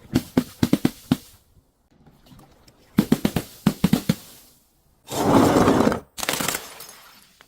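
Crushing sounds: two quick runs of sharp cracking and crunching knocks, then a dense crunching burst about five seconds in and a short one after it.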